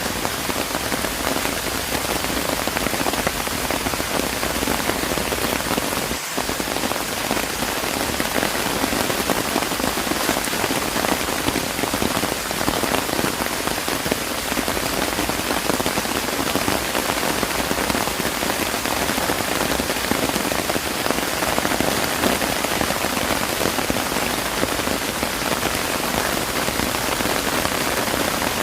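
Steady rain falling, an even, dense patter of drops on surfaces.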